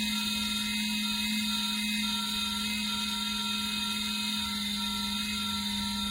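Small fan motor of a plug-in electric wall space heater running steadily, with a low hum and a high, thin whine.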